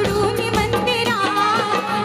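Konkani jakhadi folk music: a shahir singing a wavering, ornamented melody over regular percussion strikes.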